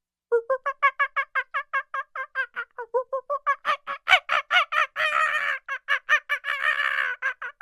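An animal call: a rapid series of pitched notes, about five or six a second, that runs together into a continuous chattering call about five seconds in and again near the end.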